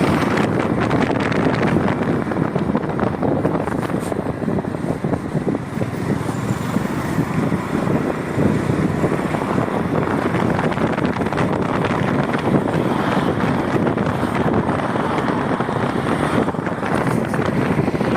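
Wind rushing over the microphone of a moving motorcycle, a steady loud roar of wind and road noise that dips slightly a few seconds in.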